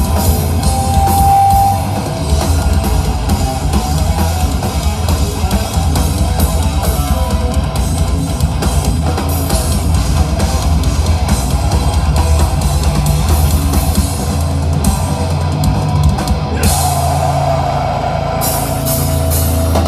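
A rock band playing live: guitar over a busy drum kit with cymbals, loud and dense.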